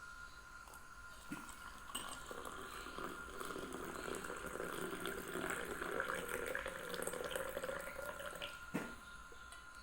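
Water running for about six seconds, with a light knock just before it starts and another just after it stops.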